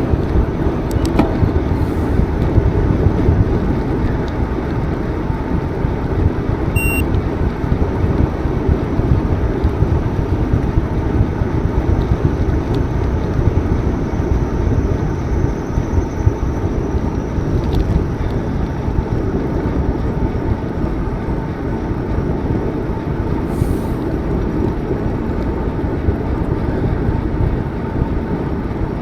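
Steady rush and rumble of wind buffeting the microphone of a camera carried on a moving bicycle, with the bicycle's tyres rolling underneath.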